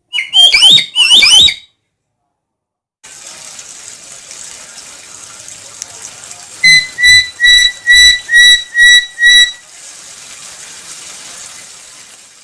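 Black-capped lory calling: two loud calls that sweep up and down in pitch at the start, then after a pause a run of seven short, clear whistled notes, about three a second, over a steady background hiss.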